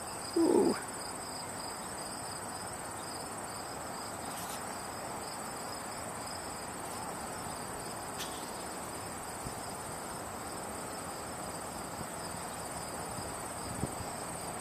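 Insects trilling steadily and high-pitched, a continuous pulsing buzz over a steady background hiss. A short, louder sound cuts in about half a second in.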